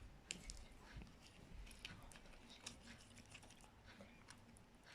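Faint, scattered clicks and light scraping of a spoon stirring a thick, creamy powder-and-oil paste in a small tub.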